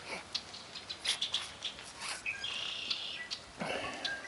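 Birds chirping, with a held high buzzing call about two seconds in and a few faint clicks.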